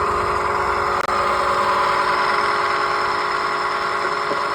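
Tullu monoblock water pump's electric motor running steadily and very noisily, a steady hum with a harsh, rough whine over it. The noise comes from its worn bearings, which the repairer says must both be changed.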